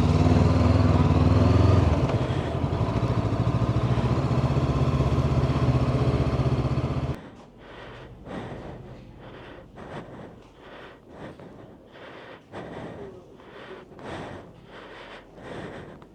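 Honda CB500X's parallel-twin engine running steadily at low speed. It cuts off abruptly about seven seconds in, leaving faint irregular knocks and rustles.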